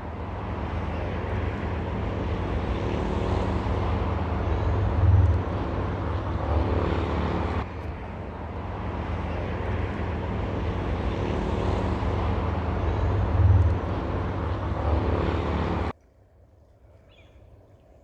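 A steady engine-like hum over a rushing noise, the same stretch of about eight seconds heard twice with a brief swell in each, cutting off suddenly near the end.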